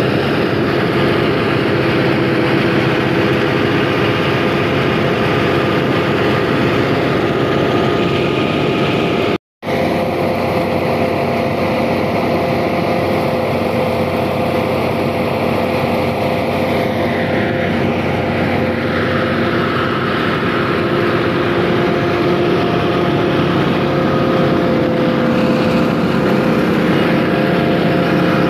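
A 480 tractor's diesel engine running steadily under load, driving a paddy thresher, with the thresher's steady drone. About nine seconds in the sound cuts out for a moment, and later a higher whine falls in pitch.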